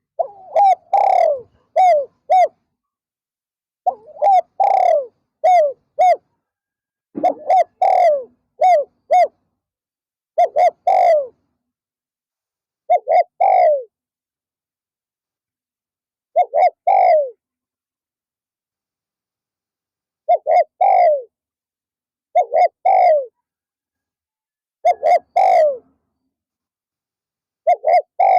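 Spotted doves cooing loudly in repeated multi-note phrases. Groups of three or four coos come in quick succession during the first ten seconds or so, then shorter phrases every few seconds. This is the calling of a decoy dove and the wild doves it draws in.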